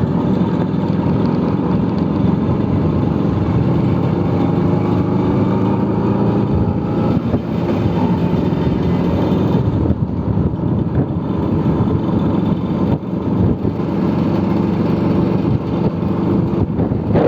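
Vespa scooter engine running steadily while riding, its pitch rising and falling a little with the throttle.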